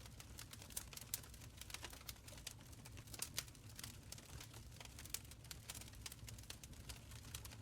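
Open wood fire crackling in a stone fireplace: many irregular sharp pops and snaps over a soft, steady low rumble of burning.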